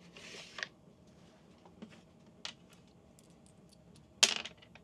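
Backgammon checkers and dice clicking on the board: a few sparse light clicks, then a louder clatter about four seconds in as the dice are thrown.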